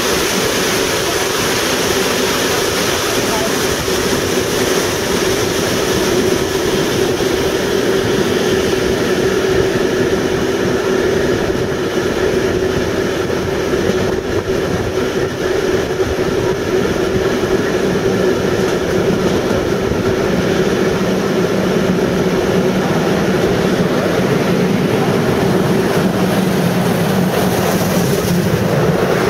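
Steady running noise of a train heard from an open carriage window: wheels on the rails and rushing air. In the last few seconds a second steam locomotive draws alongside on the next track and its sound joins in.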